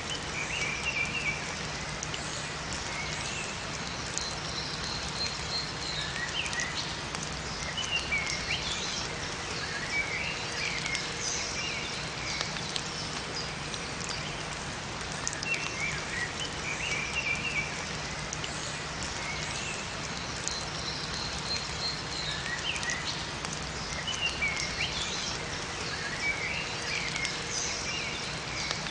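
Steady rain falling in a forest, with small songbirds chirping in short twittering phrases every few seconds over it.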